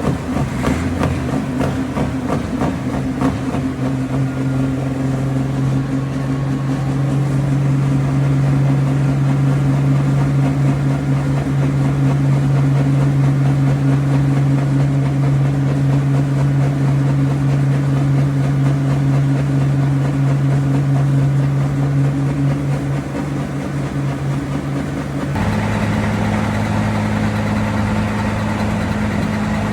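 A heavy engine idling steadily with a deep, even hum. About 25 seconds in, the note drops suddenly to a lower steady pitch.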